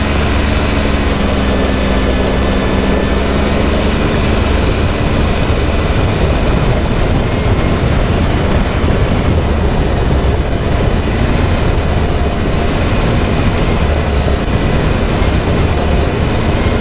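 Can-Am Maverick X3 side-by-side on the move: its engine running with a steady, loud rumble and rushing noise from driving over the trail.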